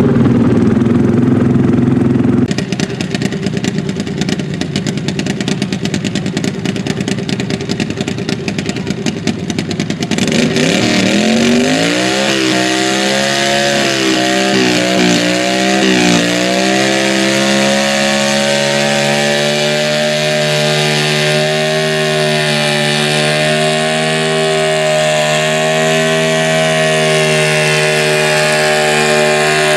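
Modified garden tractor pulling engine running with a rough, rapidly pulsing sound. About ten seconds in it revs up, its pitch wavers for a few seconds, then it holds a steady high-revving note under load.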